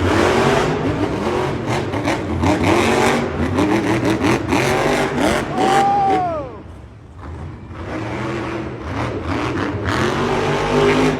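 Monster truck's supercharged big-block V8 revving hard in repeated surges, pitch rising and falling with the throttle. It drops away briefly about six to seven seconds in, then builds again.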